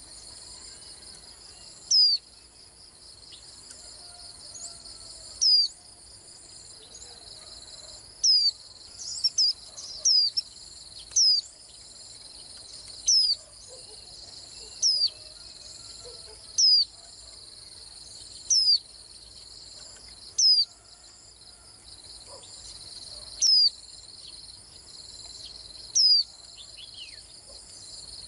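White-eye giving short, sharp down-slurred call notes every couple of seconds, with a brief burst of several notes about nine seconds in, over a steady chorus of crickets.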